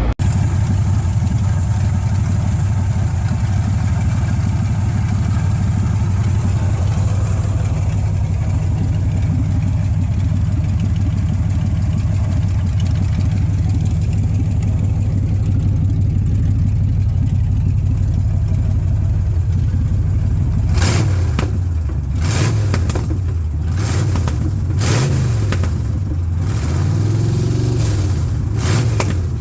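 Engine running steadily, then revved up and down repeatedly in the last third, with several sharp clatters over it.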